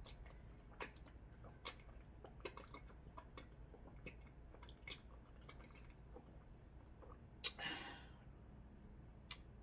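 Quiet close-up eating sounds: scattered small clicks and mouth smacks of someone chewing seafood, with a short louder burst about three-quarters of the way through.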